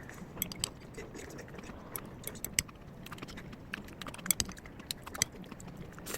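Irregular light clicks and taps of small hard objects, a few a second, over a faint steady hum.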